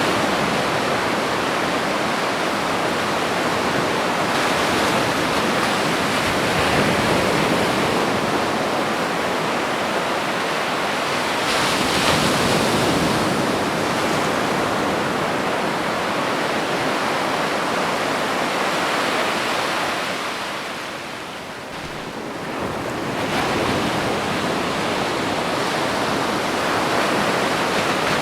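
Ocean waves breaking on a beach: a continuous wash of surf that swells as waves break, about a second in, around twelve seconds and again after a brief lull near twenty-two seconds.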